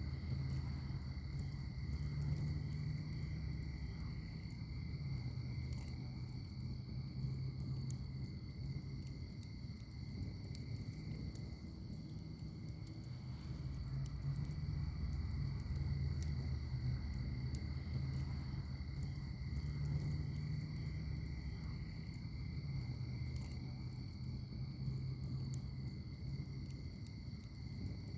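Wood fire in a firepit crackling, with scattered small pops over a low rumble of burning, and a steady high-pitched insect trill, like crickets, held underneath.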